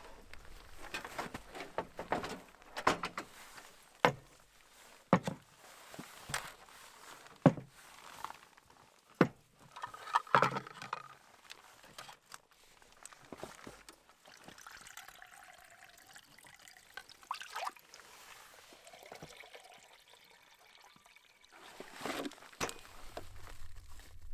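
Breakfast batter being made at camp: a string of sharp clicks and knocks from utensils and containers, with liquid being poured.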